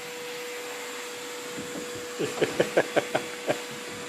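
Vacuum cleaner running steadily with a constant hum; about two seconds in, a quick run of about eight short, loud sounds rises over it for over a second.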